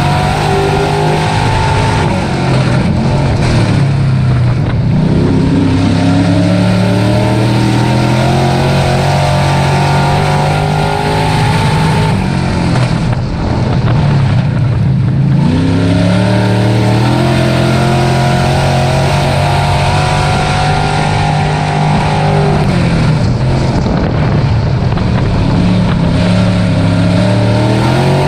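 Dirt-track race truck's engine running hard under racing load, its pitch dropping three times about ten seconds apart and climbing back after each.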